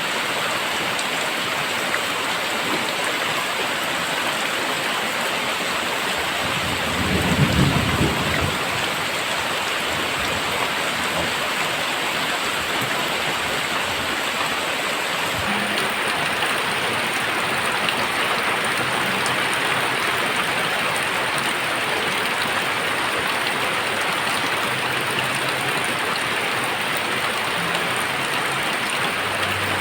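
Very heavy rain pouring steadily, with a short low rumble of thunder about seven seconds in.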